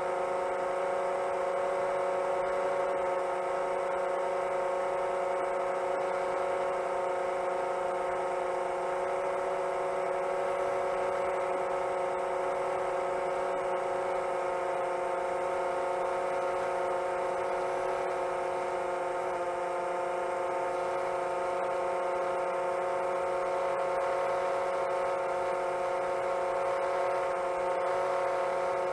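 7-inch long-range FPV quadcopter's motors and propellers whirring steadily in cruise, a constant multi-tone hum whose pitch settles slightly lower about two-thirds of the way through.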